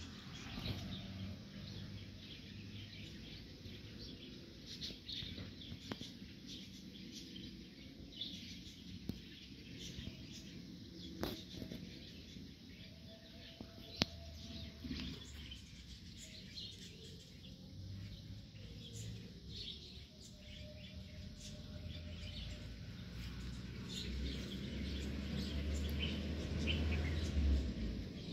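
Small birds chirping in short, scattered calls, over a low rumble that grows louder near the end.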